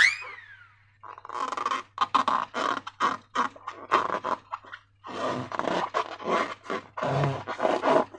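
Slime being squeezed and worked inside rubber balloons. A squeak of stretched balloon rubber falls in pitch in the first second, then a run of irregular wet squelches and rubbery squeaks follows.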